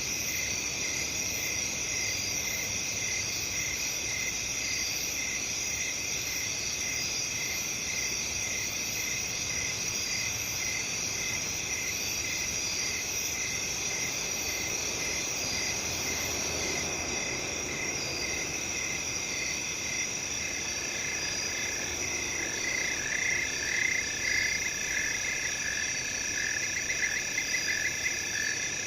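A night chorus of crickets trilling steadily, with a regular pulsing chirp under it. About two-thirds of the way in, a second caller joins with quick pulsed trills in a lower pitch, coming and going.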